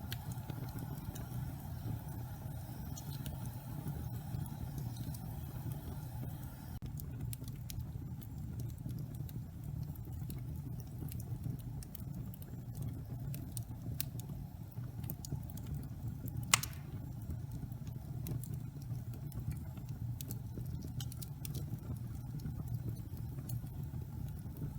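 Wood fire burning in a fireplace: a steady low rumble of flames with scattered crackles, and one loud pop about two-thirds of the way through.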